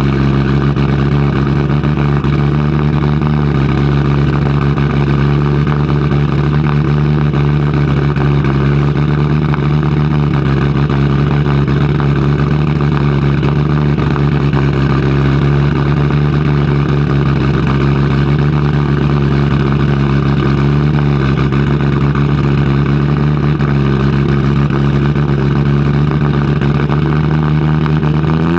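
Audi Sport Quattro S1 E2's turbocharged inline five-cylinder engine running steadily, holding one constant pitch.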